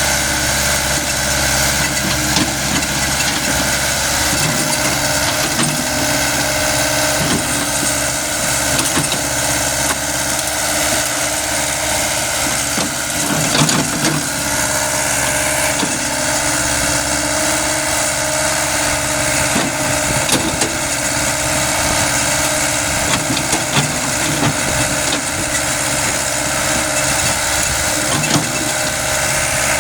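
Caterpillar excavator's diesel engine running steadily, with scattered cracks and knocks as the machine breaks up a tree trunk, the loudest a little before halfway.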